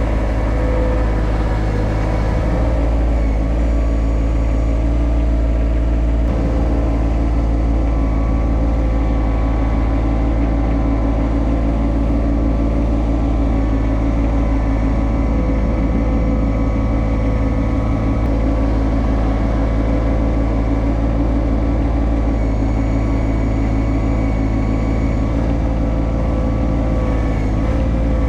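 Yanmar SA324 compact tractor's diesel engine running steadily at an even speed.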